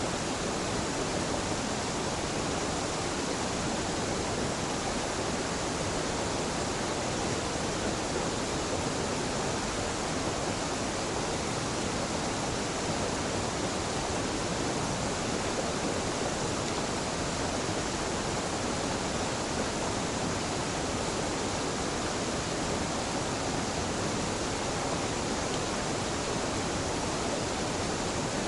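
Waterfall on a mountain river: a steady, even rush of falling and splashing water.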